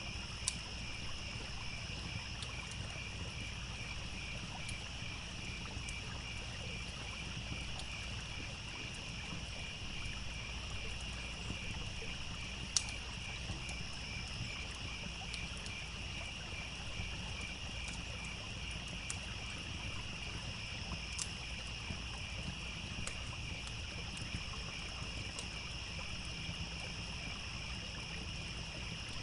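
Crickets chirping in a steady, pulsing chorus over the low rush of a stream, with occasional sharp crackles and pops from a campfire, the loudest pop about 13 seconds in.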